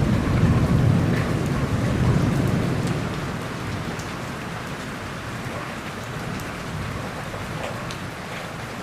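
Steady rain falling, with scattered drops ticking, over a low roll of thunder that is loudest in the first few seconds and dies away after about three seconds.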